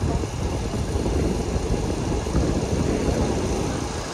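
Passenger train running along the line: a steady low rumble.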